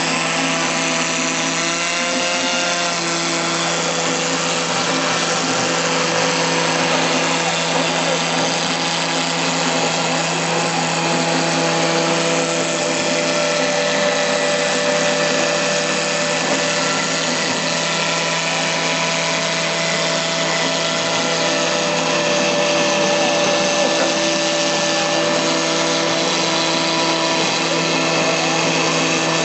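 CNC router spindle running at 15,000 rpm while its 6 mm cutter mills plexiglass sheet, a loud steady whine with several tones that shift now and then as the machine moves.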